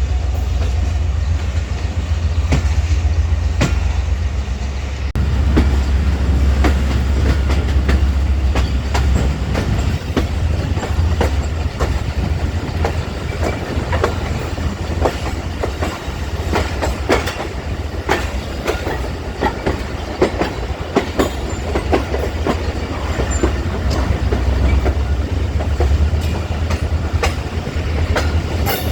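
Passenger train running along the line, heard from a coach: a steady low rumble with wheels clicking and knocking irregularly over rail joints.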